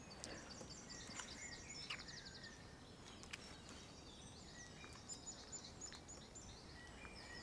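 Faint birdsong: high, repeated chirps with a quick trill about a second in.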